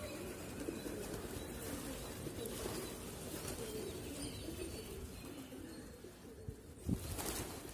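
Several pigeons cooing, low overlapping coos for about six seconds; near the end a thump and a brief rush of noise.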